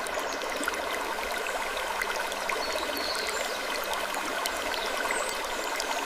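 Relaxing sleep ambience: a steady rush of running water with many small scattered clicks and faint creaks over it.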